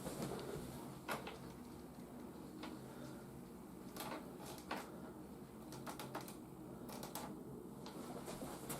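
Plastic toys being handled: scattered soft clicks and taps, about eight of them, over a low steady hum.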